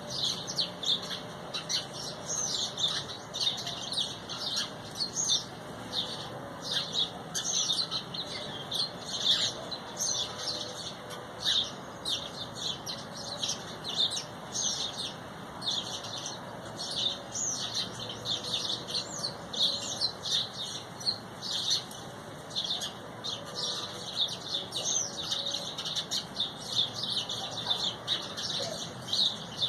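A flock of small birds chirping, many short high calls overlapping into a continuous chatter.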